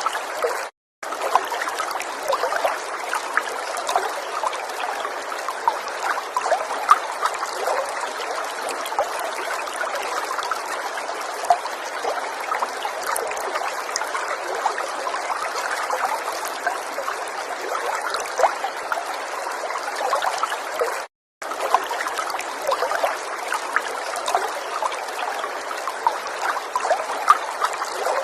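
River water flowing and trickling: a steady babble full of small splashes. It cuts out to silence for a split second twice, just under a second in and again about two-thirds of the way through.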